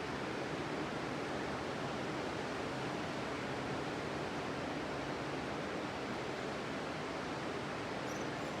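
Ocean surf washing steadily onto the beach, an even rushing noise without distinct wave breaks. A few faint high chirps come near the end.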